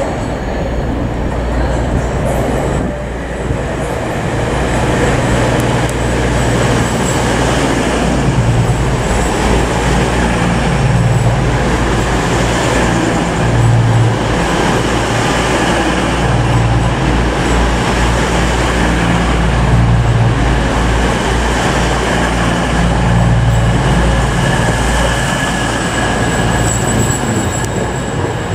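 A Class 222 Meridian diesel-electric multiple unit running along the platform, its underfloor diesel engines giving a steady low rumble over wheel and rail noise. A deep swell returns every two to three seconds as each car's engine passes.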